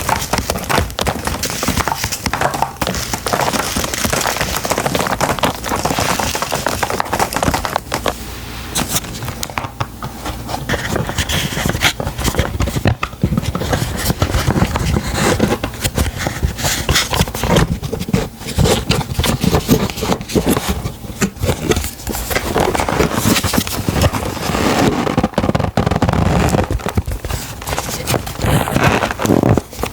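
Close-miked hands handling packaging and beauty products: dense crinkling and scratching with many quick taps and clicks.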